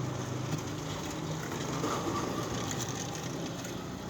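Faint clicks and rustling of hands joining electrical wires, over a steady background hiss.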